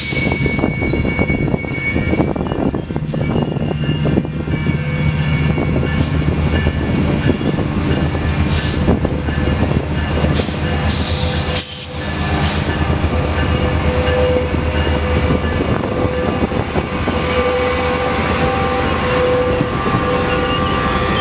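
Metrolink diesel commuter train running through the station: a steady low locomotive engine hum mixed with rail and wheel noise. Several short high hissing bursts come about a third to halfway through.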